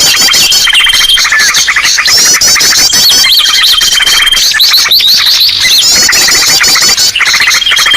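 Dense, loud chorus of many small birds calling at once: rapid chattering trills and repeated chirps layered over one another, with a thin, steady high whistle held for about a second several times. It is a 'ribut' bird-lure call, a commotion of agitated birds played to draw other birds in.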